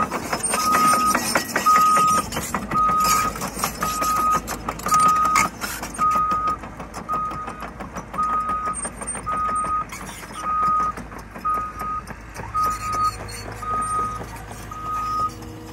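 Caterpillar 315F LCR hydraulic excavator running, its travel alarm beeping about once a second over the diesel engine and the clatter of the machine. The engine note settles into a steadier hum about three-quarters of the way through.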